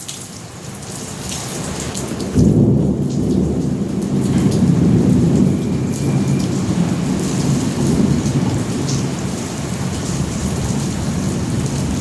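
Thunderstorm: steady rain hissing and pattering. About two seconds in, a sudden deep thunder rumble breaks in and keeps rolling.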